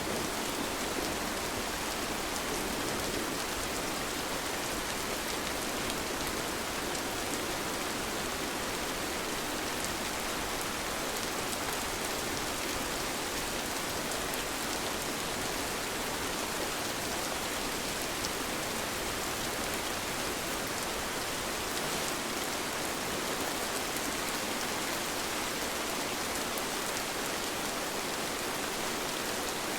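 Steady rain falling, a continuous even hiss with countless small drop ticks.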